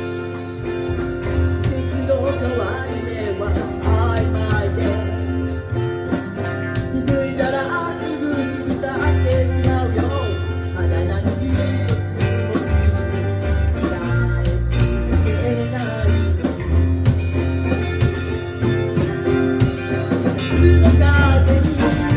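Band music: guitar over a bass line that moves in held notes.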